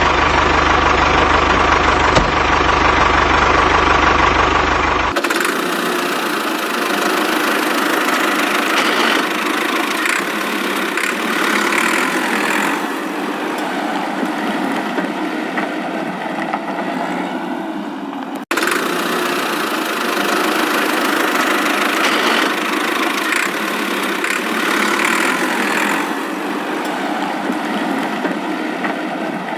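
A small motor running steadily with a buzzing mechanical noise, broken by abrupt changes about five seconds in and again near the eighteen-second mark.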